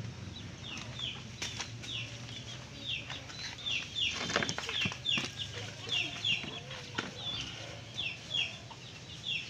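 Birds chirping: short, high peeps that fall in pitch, repeating about twice a second.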